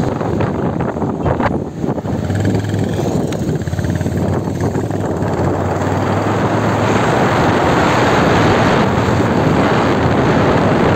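Motorcycle riding along: engine running under wind rushing over the microphone, with a steady low hum in the first half and the noise growing louder from about halfway through.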